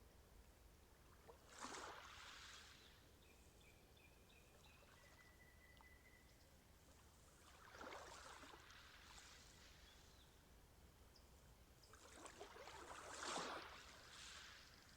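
Faint swishes of water, three times, several seconds apart, with a few faint high chirps between them.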